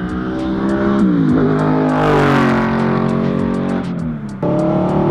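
Audi R8 engine revving through a newly fitted titanium Quicksilver exhaust, its pitch climbing and falling twice, then holding steady near the end.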